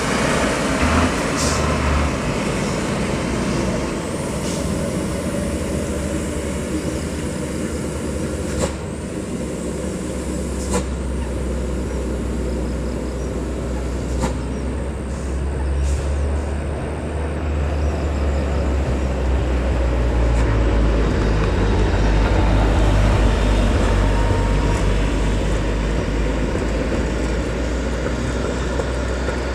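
Foton dump truck's diesel engine running, a steady deep rumble with road traffic noise around it and a few short sharp knocks.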